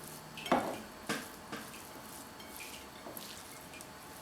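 A handful of short, soft knocks and wet splashy sounds of food preparation, about five spread over a few seconds.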